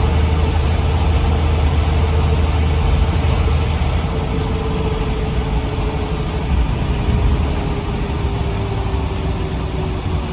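Scania CN94UB OmniCity single-decker bus running, with a low engine drone that eases after about four seconds. Over it a steady whine slowly falls in pitch through the second half.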